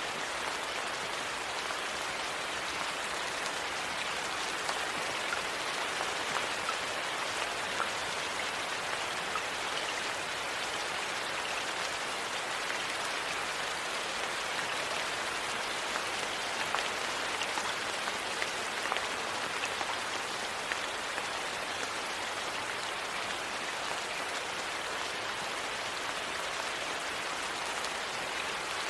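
Steady rain falling, an even hiss with scattered faint ticks and drips.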